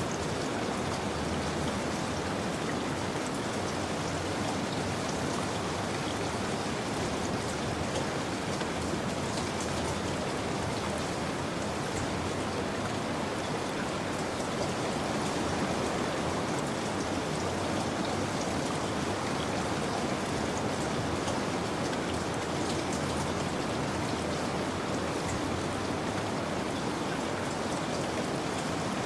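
Steady rainfall: an even hiss with many scattered individual drop ticks.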